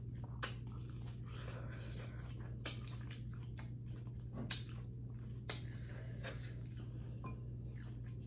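Close-miked eating: chewing with a scatter of sharp wet mouth clicks and smacks, heard over a steady low hum.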